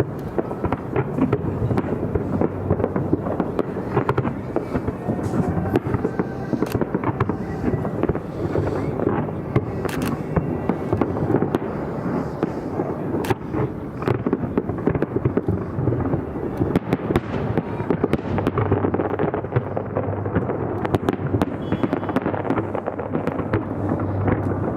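Fireworks display going off in a dense, continuous barrage of bangs and crackles with no pause.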